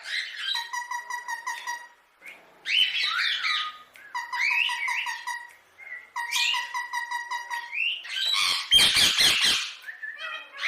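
Indian ringneck parakeet calling in phrases of fast, evenly repeated chattering notes. Near the end comes a louder, harsh squawk.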